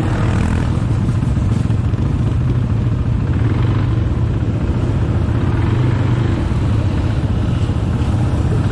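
ATV engine running steadily under way, a continuous low rumble with no change in pace.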